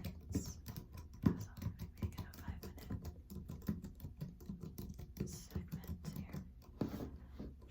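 Typing on a computer keyboard: a quick, irregular run of key clicks and taps, one sharper keystroke about a second and a half in.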